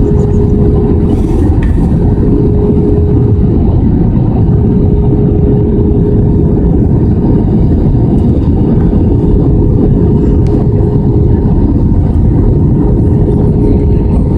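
Airbus A320 cabin noise in flight: a steady, loud rush of engine and airflow sound, with a constant hum tone running through it.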